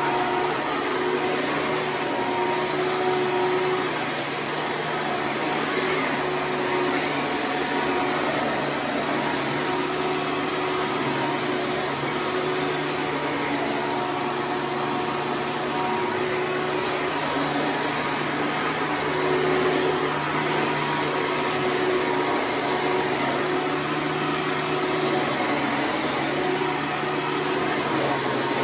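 Hoover Preferred upright vacuum cleaner running steadily on a rug, its motor giving a constant hum over the airflow noise as it draws up sand.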